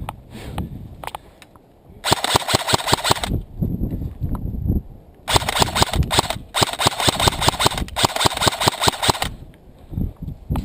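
Airsoft guns firing on full auto, a rapid rattling burst about two seconds in, then a longer stretch of bursts from about five to nine seconds.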